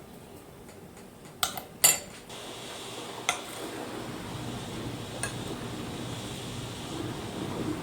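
A few sharp clinks of dishes and metal utensils, the loudest about two seconds in. After that comes a steady coarse rushing noise.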